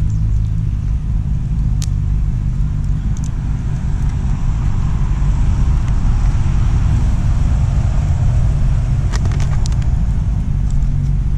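Wood campfire with a few sharp crackles, about two seconds in and again in a quick cluster near the end, over a steady low rumble.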